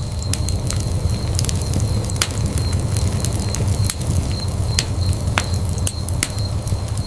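Wood fire burning in a fireplace: a steady low rumble of flames with sharp, irregular pops and crackles from the burning logs, several a second.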